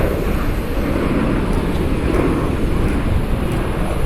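Jet airliner engine noise carrying across an airfield: a steady, even noise heaviest in the low end, with no single tone standing out.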